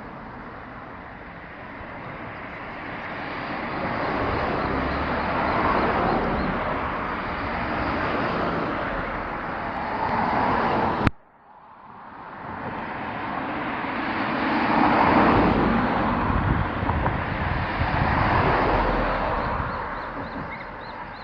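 Road traffic: vehicles passing one after another, each rising and fading away. About eleven seconds in there is a sharp click and the sound briefly drops out.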